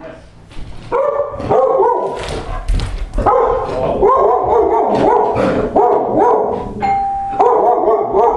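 A dog barking loudly and over and over, set off by someone at the front door, with one short steady doorbell tone about seven seconds in.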